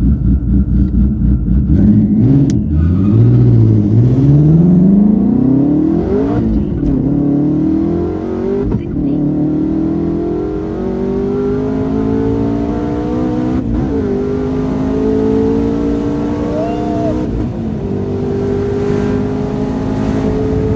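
Twin-turbo Ford Mustang Shelby GT350's flat-plane-crank V8 on a full-throttle half-mile pass. It pulses for the first two seconds, then revs up through the gears, the pitch climbing after each of several quick upshifts and rising more slowly in the higher gears.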